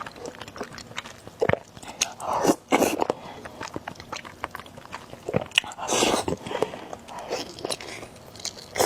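Close-miked chewing and biting of noodles and egg, with many wet mouth clicks and a few louder, longer eating noises about two and a half seconds in and again about six seconds in.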